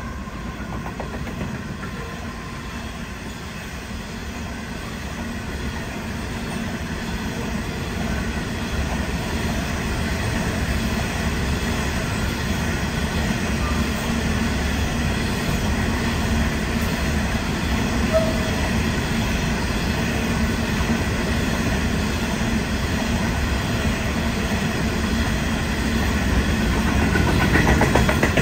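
Coal hopper wagons of a long freight train rolling past, a steady rumble with wheel clickety-clack over the rail joints. It grows louder toward the end.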